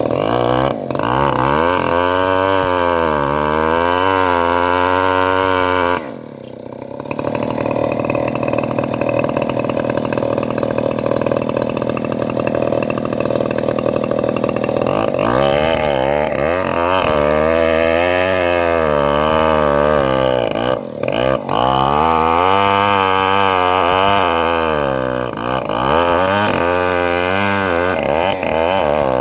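Homemade engine-driven bandsaw mill running steadily while sawing trembesi (rain tree) timber, its pitch wavering up and down. The sound drops briefly about six seconds in and twice more around twenty-one seconds.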